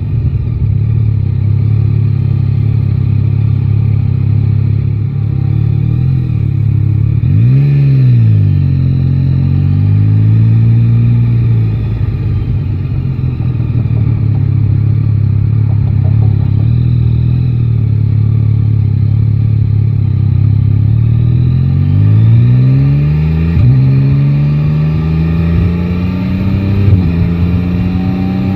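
Yamaha Tracer 9 GT's 890 cc inline-three engine running at low revs through city riding. It gives a quick rev that rises and falls about a quarter of the way in. Near the end it accelerates, the pitch climbing and dropping at each upshift.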